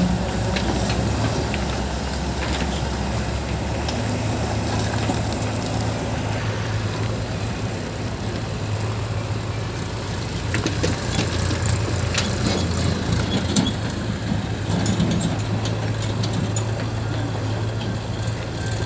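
Diesel engine of a JCB backhoe loader running steadily, with a few sharp knocks in the middle.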